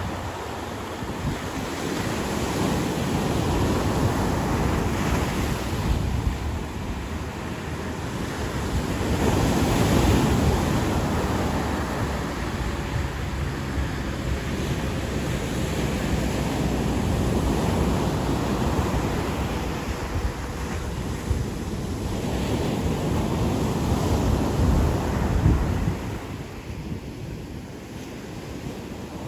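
Ocean surf washing onto a beach in slow swells that rise and fall every several seconds, with wind buffeting the microphone.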